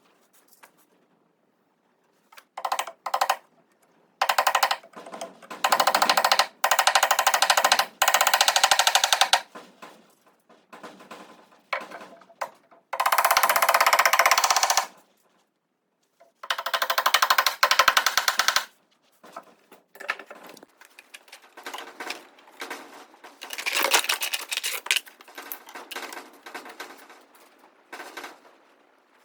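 A handheld power tool run in repeated bursts of one to two seconds, each with a fast, rattling beat.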